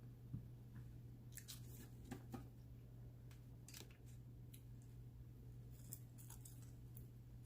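Faint, scattered chewing and crunching on Flamin' Hot Cheeto-crusted fried chicken wings, with short, sharp crackles every second or so over a steady low hum.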